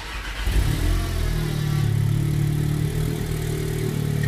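VW Golf 7 R's turbocharged 2.0-litre four-cylinder engine running. The sound starts abruptly, its note climbs over about the first second, then holds steady.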